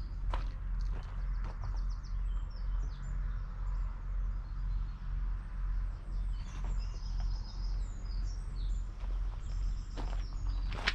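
Case IH Puma 240 CVX's 6.7-litre six-cylinder diesel engine running as a steady low hum, with birds chirping over it in short bursts of song.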